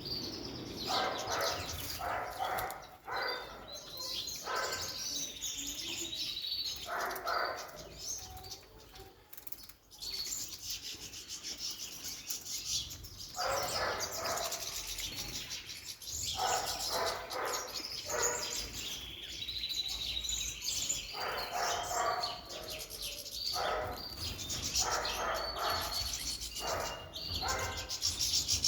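Small cage birds chirping and tweeting while they bathe, splashing water and fluttering their wings in repeated bouts of a second or two.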